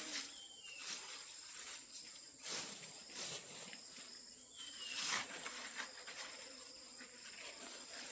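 Insects, crickets or cicadas, trilling steadily in a high, even buzz, with four sharp knocks spread through it.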